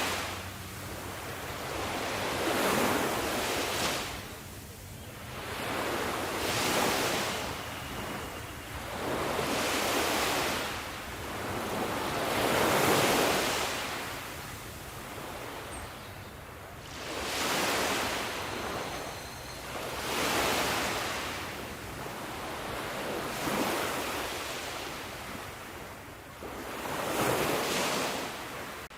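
Sea waves, each surge of surf swelling up and fading away in a noisy rush, one after another about every three to four seconds.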